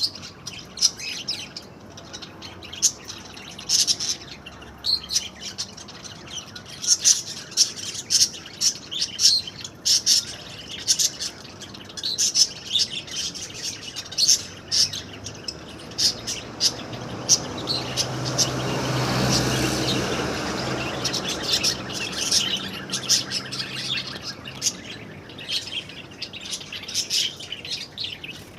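A flock of small aviary birds chirping and squawking constantly, with many short, high, overlapping calls. In the middle a low hum with a rush of noise swells up and fades away again.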